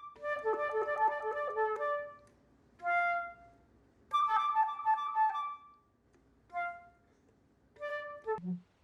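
Flute playing short phrases of quick notes separated by silences: a flurry at the start, a single note about three seconds in, another flurry about four seconds in, then brief figures near the end.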